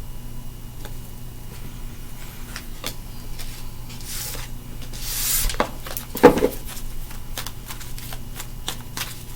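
A deck of tarot cards being handled and shuffled: scattered card clicks, two brief swishes of cards sliding, and one loud knock just after six seconds, then a fast run of clicks near the end.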